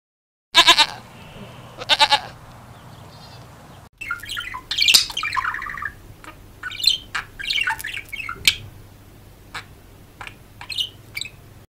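A goat bleats twice in short calls, then a group of caged budgerigars chirps and chatters with many quick, high squawks and chirps.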